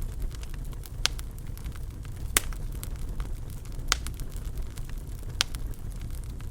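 Wood fire in a fireplace, crackling: a steady low rumble of the flames with scattered sharp pops, four of them louder than the rest.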